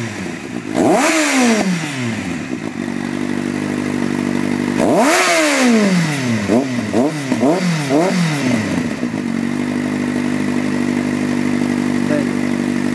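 Kawasaki Z750 motorcycle's inline-four engine revved through its exhaust: a rev about a second in and a longer one about five seconds in, followed by four quick throttle blips, with steady idling between and afterwards.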